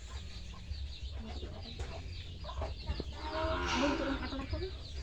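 Chickens clucking, with one louder call about three and a half seconds in, over a steady low rumble.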